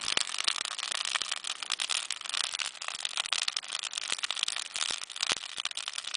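Wood campfire burning, a dense, irregular crackling and popping over a steady hiss.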